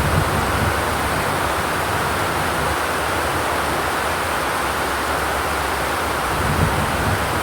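Steady rain, a dense even hiss with no thunder, with a couple of slight low swells, one near the start and one near the end.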